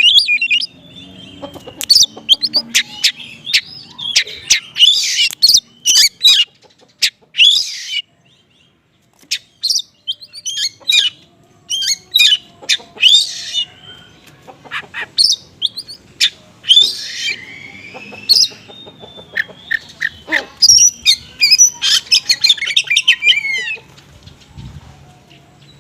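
Oriental magpie-robin (kacer) singing a fast, konslet-style song of sharp chirps, trills and rattles mixed with small-bird mimicry, with a short pause about a third of the way through.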